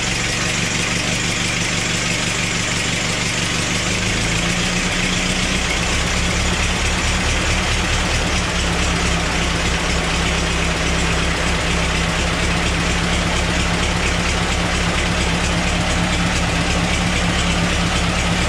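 Ford Model T's four-cylinder flathead engine idling steadily on battery ignition. Its note changes about four seconds in.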